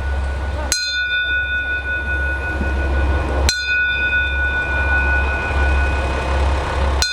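A train running, heard from on board: a steady low rumble under a thin, steady high whine. The sound breaks off and restarts abruptly three times.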